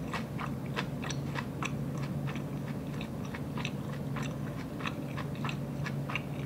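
Close-miked chewing of a mouthful of inari sushi (sweet fried tofu pouch and rice): irregular wet mouth clicks and smacks, about two to four a second, over a low steady hum.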